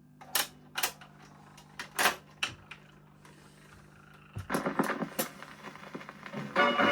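A 78 rpm record's lead-in groove, with scattered loud clicks and crackle over a faint steady hum. The crackle grows denser about two-thirds of the way in, and the record's music starts near the end.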